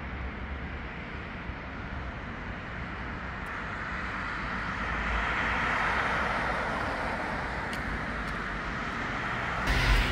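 Steady city street traffic noise that swells about halfway through as a vehicle passes. Near the end the level jumps suddenly to a louder, deeper rumble.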